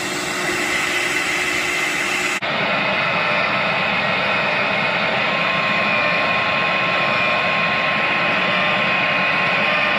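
CNC router spindles running steadily: a thin whine over a dense machine noise. The sound changes abruptly about two and a half seconds in, losing its hiss and leaving the whine.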